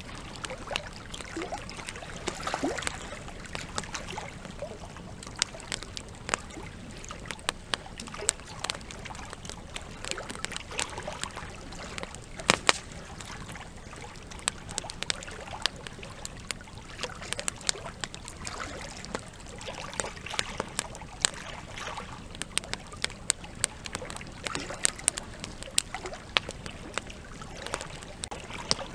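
Campfire wood crackling and popping in irregular sharp snaps, one louder snap about halfway through, over the steady rush of a river.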